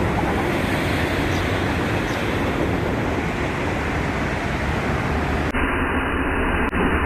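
Rotary marble grinding and polishing machine running steadily on a stone floor, a loud even drone with a low hum.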